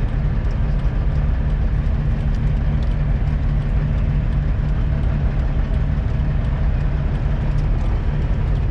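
Semi-truck diesel engine idling: a steady low rumble at an even pitch.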